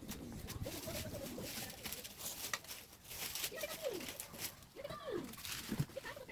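Birds cooing, a few drawn-out calls that rise and then fall in pitch, over light irregular crackling.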